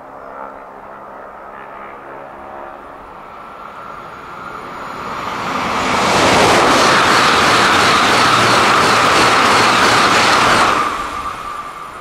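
Southeastern Class 395 Javelin high-speed electric train passing at speed. Its rushing wheel and air noise builds over a couple of seconds, stays loud for about four seconds, then drops away suddenly as the last coach goes by.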